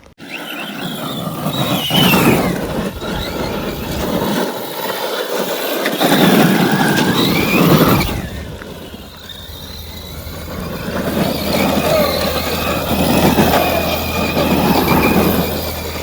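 Large electric RC monster truck being driven hard on loose gravel: the motor's whine rises and falls with the throttle over the scrabble of the tyres on stones.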